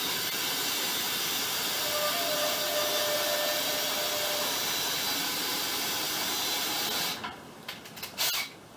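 A loud, steady hiss of machine or air noise that cuts off suddenly about seven seconds in, followed by a few sharp clicks and knocks.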